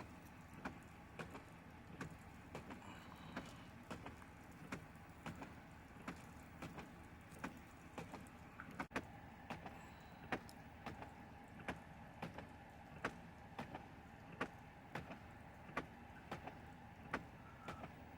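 Vehicle running at a steady low hum, with a sharp, regular ticking at about two a second.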